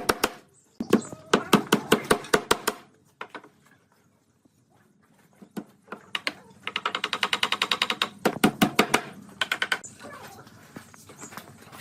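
Runs of sharp knocks in quick succession, typical of hammering on wood: a burst of strikes about five a second, a pause, then a faster, denser run of taps and a few more knocks near the end.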